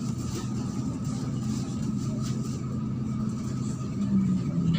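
MAZ-103 city bus heard from inside while it drives: a steady low engine drone with a constant thin whine above it. About four seconds in, the drone briefly grows louder and shifts in pitch.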